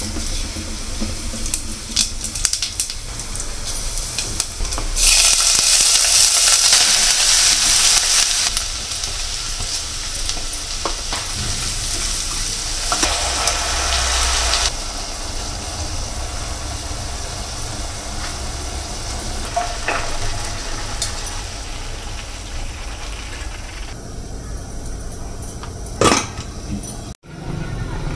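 Hot oil in a stainless steel pressure cooker sizzling, surging to a loud spitting sizzle as tomato puree is poured in about five seconds in and settling after about ten seconds. Near the end, a steel ladle stirs and clinks through thick chickpea curry in the pot.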